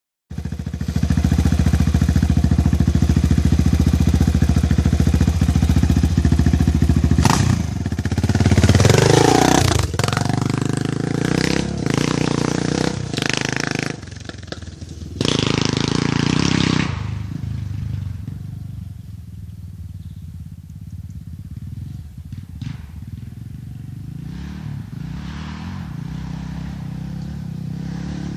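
Honda XR600R's air-cooled single-cylinder four-stroke engine running steadily, then revved several times from about seven seconds in, its pitch rising and falling. After a last loud rev it settles to a quieter, lower running sound for the second half.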